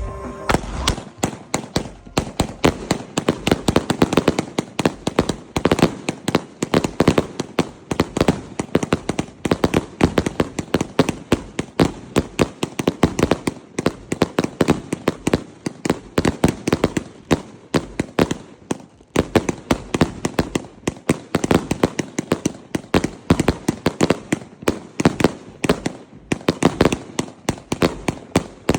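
A 120-shot consumer firework cake firing in rapid succession, a sharp bang every fraction of a second without a break.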